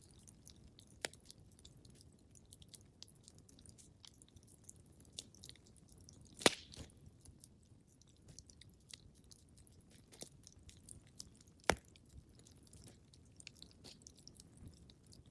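Wood fire crackling in a fireplace: scattered small crackles and two sharp, louder pops, one just past the middle and one later, over a faint low rumble.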